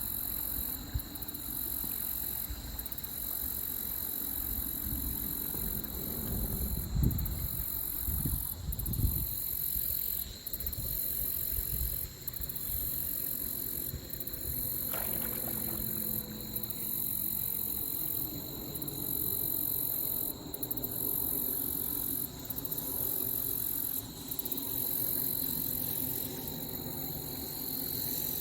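Creek water with salmon splashing as they push upstream, the louder splashes about 7 and 9 seconds in, under a steady high-pitched hiss that dips at short intervals.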